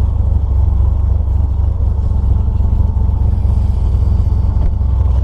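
Chevrolet S10 pickup's freshly swapped carbureted engine and road noise as the truck drives along, a loud steady low drone with no revving. This is its first test drive after the swap.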